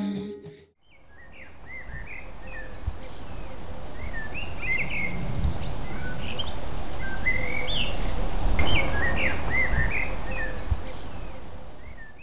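Several birds chirping and singing over a steady outdoor hiss, fading in about a second in and fading out near the end. The tail of a jingly music cue stops just before the birds begin.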